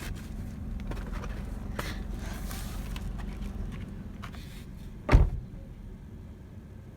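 Car running with a steady low rumble inside the cabin, then a single loud thump about five seconds in, after which the rumble is quieter.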